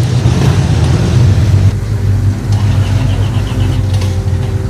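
A car engine running steadily at a low, deep rumble.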